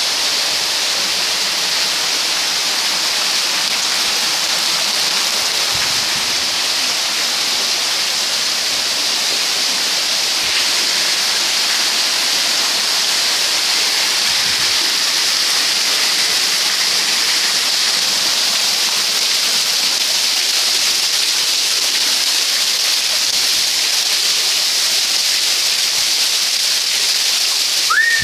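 Heavy rain pouring down, a steady, even hiss of water with no let-up.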